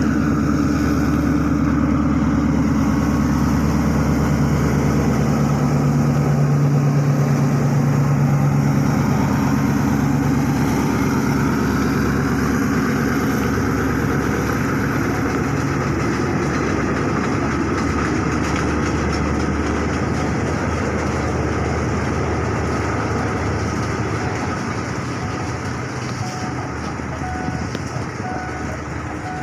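Diesel-hauled passenger train passing close by. A steady locomotive engine drone is strongest in the first ten seconds or so, then gives way to a rougher rumble that slowly fades near the end.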